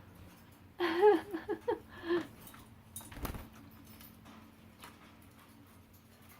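Budgies in a water bath: faint scattered splashing clicks, a short run of warbling voice sounds about a second in, and a single thump about three seconds in.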